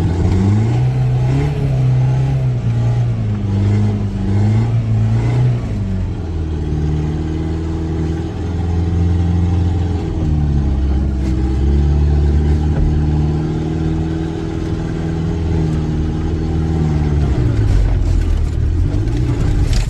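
Volkswagen Jetta TDI's turbodiesel engine revving under load as the car tries to pull out of snow. Its pitch rises and falls several times, held high for several seconds at a time before dropping off near the end.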